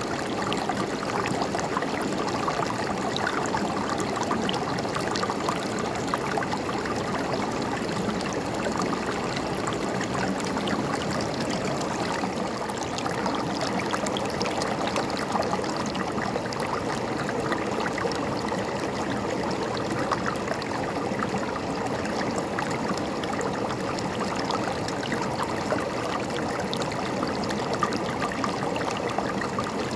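A river flowing over stones, a steady rushing and gurgling of water with small splashes scattered through it.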